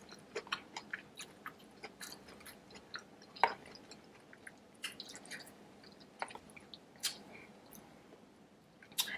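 Close-up wet chewing and lip smacking of saucy deshelled seafood boil: irregular short clicks and squishes, with a couple of sharper smacks about a third of the way in and again past the middle.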